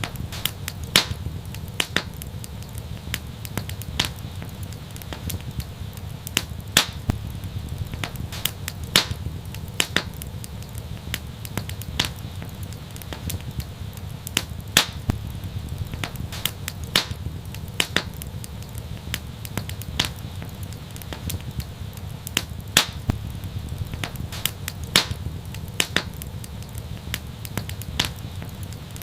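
Fireplace fire crackling: irregular sharp pops and snaps, a few each second, over a steady low rumble.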